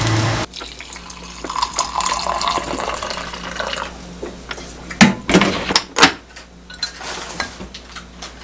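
Kitchen sink work: water running and dishes and utensils clinking and clattering, with a few sharp clatters about five to six seconds in. It opens with a steady rushing noise that cuts off after half a second.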